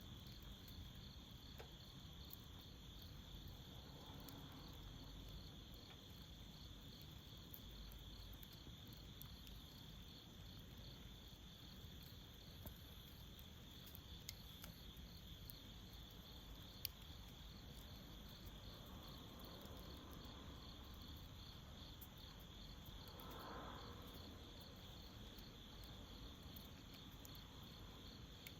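Crickets chirping in a steady, evenly pulsing high trill, with a few faint sharp ticks from the burning hardwood charcoal, the loudest about 17 seconds in.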